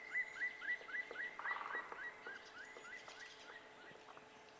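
A bird calling in forest ambience: a fast series of short notes, each dropping in pitch, about four a second, fading out after about three seconds, with a brief buzzy trill partway through.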